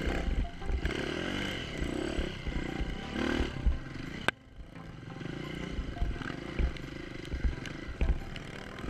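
Enduro motorcycle engine running and revving up and down while riding, with irregular low thumps. A sharp click about four seconds in is followed by a brief drop in the sound before the engine comes back.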